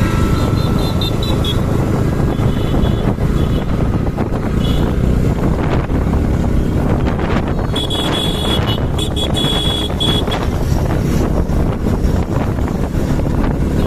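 Motorcycle riding along, engine running under heavy wind rush on the microphone. A thin high tone sounds off and on, most clearly for a couple of seconds about eight seconds in.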